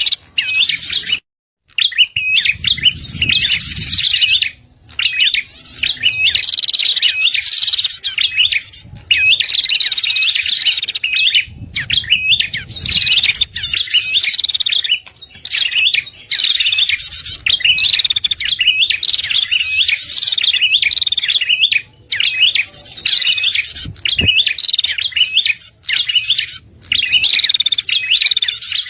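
Recorded lure song of a prenjak kepala merah, a small prinia: rapid chirping phrases repeated over and over, with short pauses between them and a brief break just after the start.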